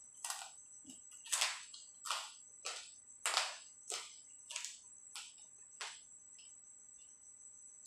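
Wet chewing with lip smacks, a bit under two a second, growing fainter and stopping about six seconds in.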